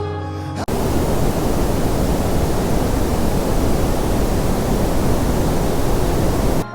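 Heavy rain pouring as a dense, steady hiss, cutting in abruptly under a second in and stopping suddenly near the end.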